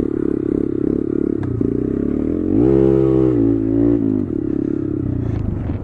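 Honda Grom 125cc single-cylinder engine with a baffled aftermarket exhaust, running on throttle and revved up about two and a half seconds in, held for a second or so, then eased off. This happens on a wet, slippery hill where the rear wheel is spinning for grip.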